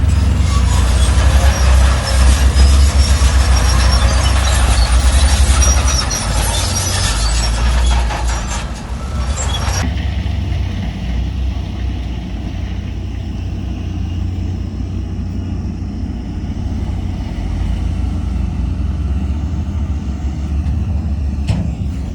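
Heavy diesel engines of dump trucks and earthmoving machinery running with a steady low rumble. A loud hiss sits over the engines for about the first ten seconds and stops abruptly.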